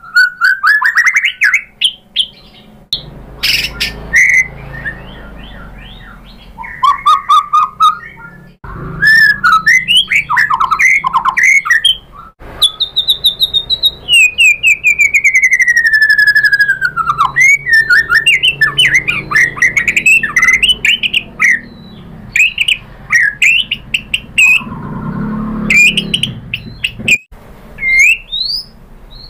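White-rumped shama (murai batu) singing a long, varied song: loud whistled phrases alternating with rapid chattering notes, and one long falling whistle about halfway through, with short gaps between phrases.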